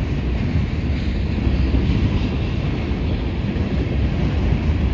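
Freight train cars rolling past at close range, a steady low rumble of wheels on the rails.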